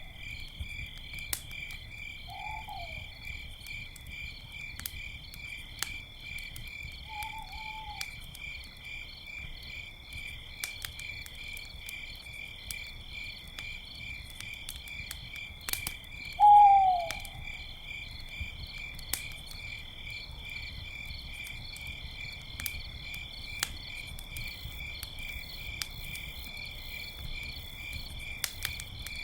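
Crickets chirp in a steady, fast pulsing trill, while a campfire crackles with scattered sharp pops. An owl gives three short hoots that fall in pitch, at about 2 s, 7 s and 16 s; the last one is the loudest.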